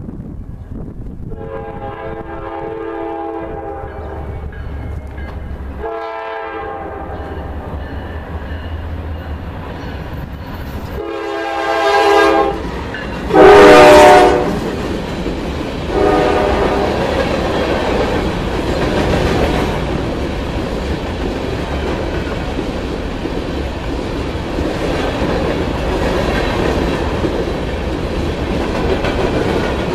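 Norfolk Southern train's diesel locomotive horn sounding five blasts as it approaches, the fourth the loudest and the last lower in pitch as the locomotive passes. A steady low locomotive rumble runs under the horn, and the passing cars then give a steady rushing clatter of wheels on rail.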